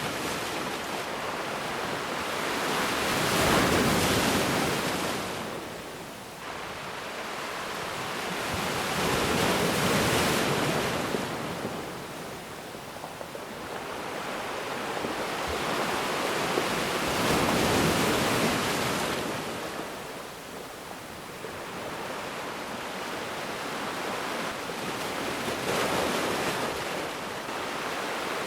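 Ocean waves breaking on a beach, a steady wash of surf that swells and eases in slow surges about every six to eight seconds.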